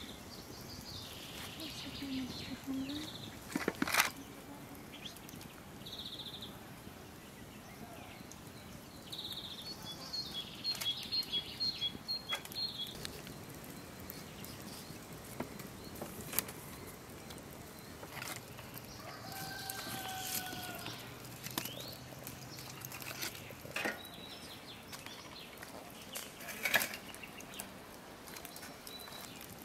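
Small birds chirping on and off, with a quick run of chirps about ten seconds in, over quiet open-air background; a few sharp knocks break in now and then.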